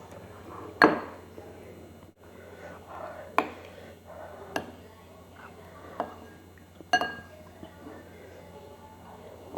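Spoon clinking against a bowl of meatball soup five times, the sharpest and loudest clink about a second in, a couple of them ringing briefly.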